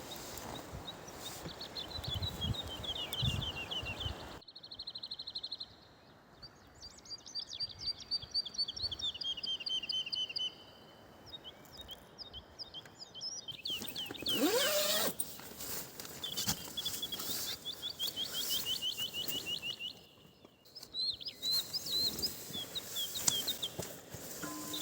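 Songbirds singing repeated high trilled phrases, with the background cutting off and changing abruptly several times, as at cuts between shots. A brief louder rising sweep sounds about fourteen seconds in.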